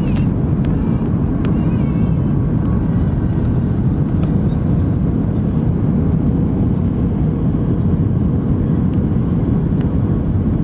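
Airliner cabin noise heard from inside the passenger cabin: a steady, dense low rumble of jet engines and airflow that keeps an even level.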